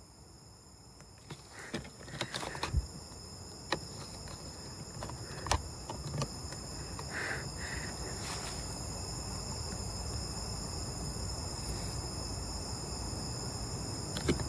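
Night insects chirring steadily and high-pitched, with scattered rustles and clicks of movement through undergrowth, and a low rumbling noise that grows louder over the first few seconds.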